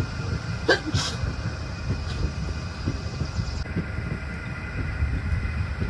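Train running with a steady low rumble, and two sharp knocks about a second in.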